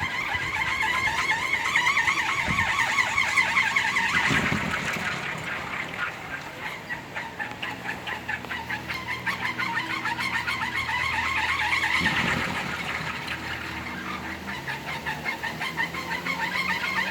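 Large 4-metre kolecer, a Sundanese wooden wind propeller, spinning in the wind, its blades giving a loud, fast-pulsing whir. The whir swells and fades, loudest a few seconds in and again about twelve seconds in.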